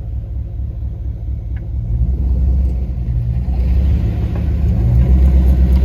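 Off-road vehicle's engine running with a low rumble, getting louder about two seconds in and again near the end as it pulls to drive the burnt truck out under tow.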